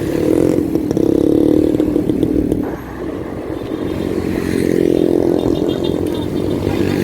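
Engine of a motor vehicle, most like a motorcycle, running loudly close by on the road. It eases a little under three seconds in, then builds again.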